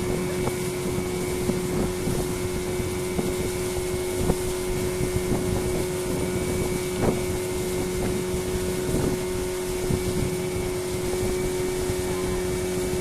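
Fishing boat's inboard engine running at a steady speed, a constant drone with a strong fixed hum and a few light knocks.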